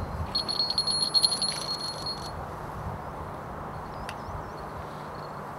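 Small metal bell on a Harris hawk jingling quickly for about two seconds, then faint bird chirps.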